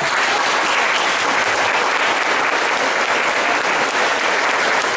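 Audience applauding steadily, starting abruptly as a song ends.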